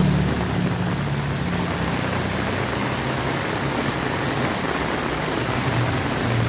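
Heavy rain falling steadily, an even hiss of water. A low hum is under it until about a second in.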